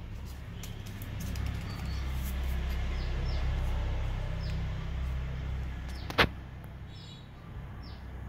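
Small birds chirping in the background: repeated short, high chirps that each fall in pitch, over a low steady rumble. One sharp click comes about six seconds in.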